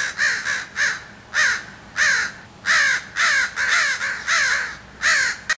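Crows cawing: a quick run of harsh, downward-falling calls, about two a second, cutting off abruptly near the end.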